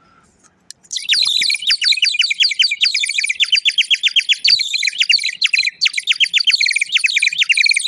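Water-filled warbler bird-call whistle blown hard: a loud, fast, continuous warbling trill of rapid falling chirps. It starts abruptly about a second in and cuts off near the end. Blown this way it is a lure to bring wild birds in.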